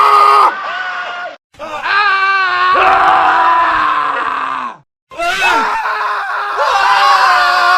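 Several men screaming one after another, a montage of separate screams cut together with two short silent breaks between clips; one scream wavers in pitch about two seconds in, and a long one falls away before the break near five seconds.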